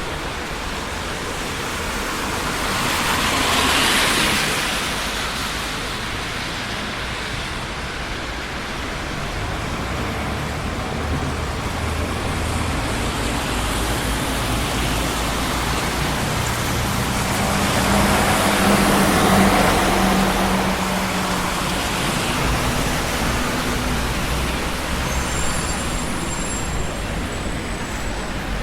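Steady traffic noise from a busy city street. Vehicles pass close twice, about four seconds in and again in the middle, the second with a low engine hum, and a few brief high tones sound near the end.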